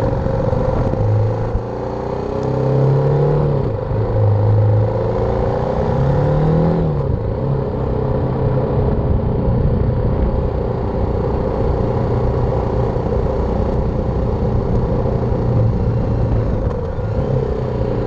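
BMW G310R's single-cylinder engine running under way: it revs up and drops back a few times through gear changes in the first seven seconds, then holds a low, fairly steady note.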